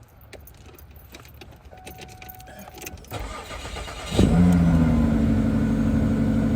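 Small clicks and a key rattle, a thump about three seconds in, then a car engine starts about four seconds in and settles into a steady idle.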